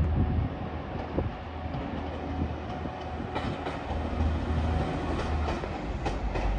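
A train running on the rails: a steady low rumble with a few sharp wheel clicks over the rail joints.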